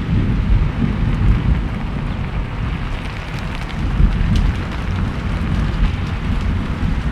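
Steady rain, with scattered drops ticking on a surface over a low rumble.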